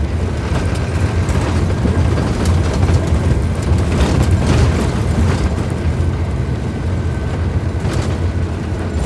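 Scania K310IB bus's rear-mounted diesel engine running with a steady low rumble.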